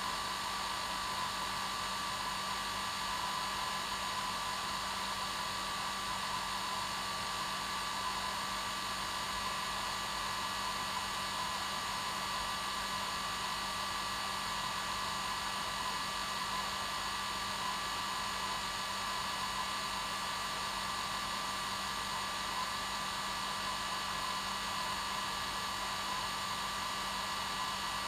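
Hair dryer running steadily: an even rushing hiss of air with a constant motor whine, unchanging throughout.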